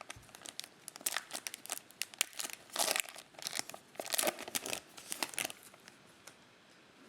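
Plastic trading-card pack wrapper crinkling and tearing open, a run of irregular crackles that stops about six seconds in.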